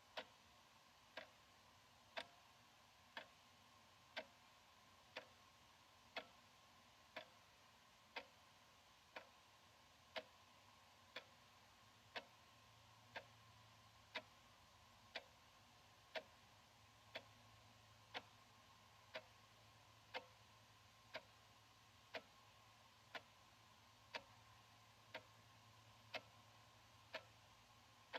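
Analog wall clock ticking steadily, one quiet tick each second.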